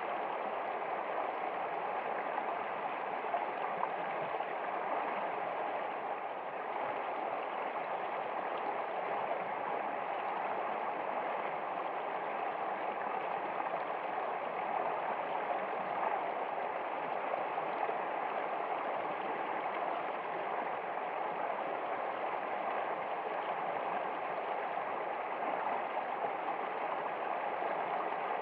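Running water, as of a stream, flowing steadily without a break.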